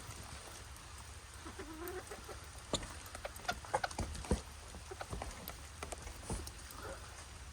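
Hens clucking softly among scattered sharp taps.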